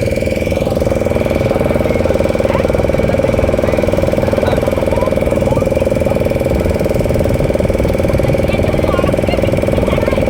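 Boat engine running steadily at a constant speed, a loud continuous chugging drone.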